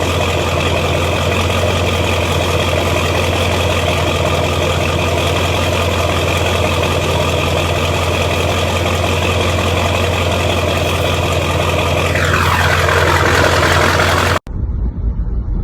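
Truck engine running steadily with a strong low drone. Near the end a whine slides down in pitch, then the sound cuts off abruptly.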